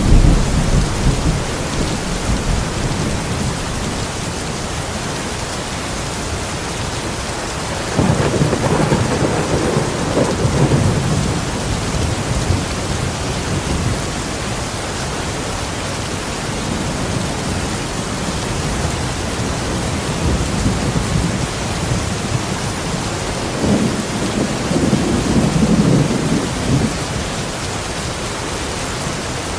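Steady heavy rain, with rolling thunder rumbling three times: at the start, about eight seconds in, and again near the end.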